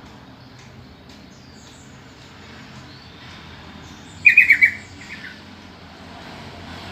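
Yellow-vented bulbul (trucukan) calling: a loud burst of about five quick chattering notes about four seconds in, followed by a fainter couple of notes, over a steady faint background hiss.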